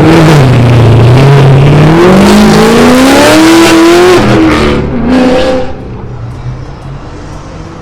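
A car engine accelerating hard and very loud, its pitch climbing for about three seconds, dropping sharply as at a gear change, climbing briefly again, then fading away.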